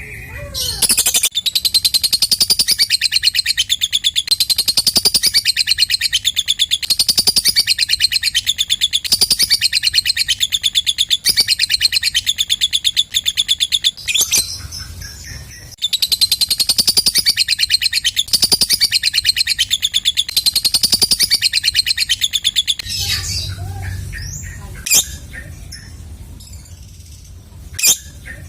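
Lovebird ngekek: a long, rapid, high-pitched chattering trill that starts about a second in and runs for about thirteen seconds. After a short break a second run lasts about seven seconds, then the sound thins out into scattered chirps.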